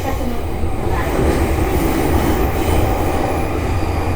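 E233 series electric train running, heard from inside the car: a steady rumble of wheels on rail with a faint steady whine above it.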